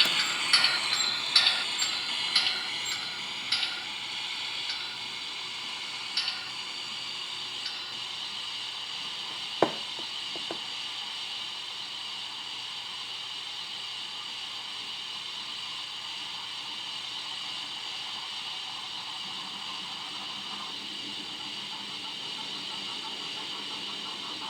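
Model railway train running, its wheels clicking rapidly over the rail joints and fading over the first few seconds, leaving a steady high hiss with a single sharp click about ten seconds in.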